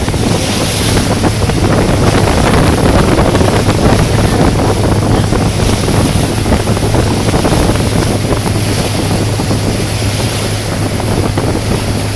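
A motorboat's engine running with a steady low hum, under the rush of water along the hull and wind buffeting the microphone.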